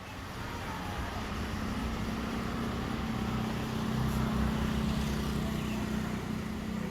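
A motor vehicle's engine running with a low rumble and steady hum, growing louder over the first few seconds and then holding.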